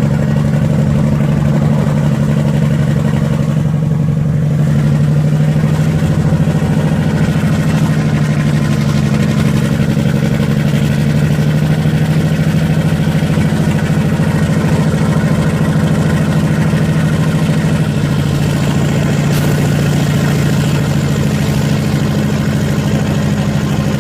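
A vehicle engine running steadily at a constant speed, its pitch shifting only slightly now and then.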